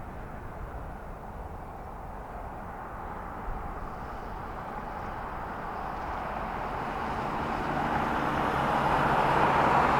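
Diesel locomotive approaching slowly, its engine hum and rolling noise growing steadily louder through the second half.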